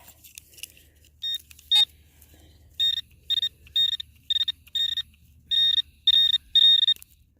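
Metal detector beeping on a buried target: a string of short, high, single-pitched beeps about twice a second, starting about three seconds in and lengthening a little near the end, as the target is picked up again in the dug plug.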